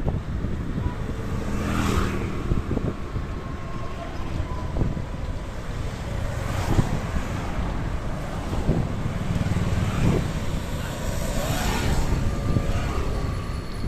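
Wind buffeting the microphone during a ride on an electric bicycle: a steady low rumble, with three brief louder whooshes.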